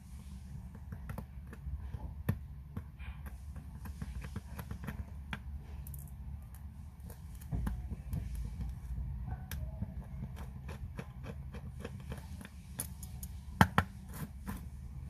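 Light clicks and taps of small metal tools on the parts of a Seiko 6119 automatic watch movement, irregular throughout, with two louder clicks near the end. A steady low hum runs underneath.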